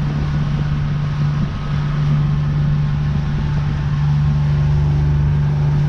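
A 50 hp Honda four-stroke outboard runs steadily with the boat under way, giving a constant low drone with a steady hiss of water and air over it.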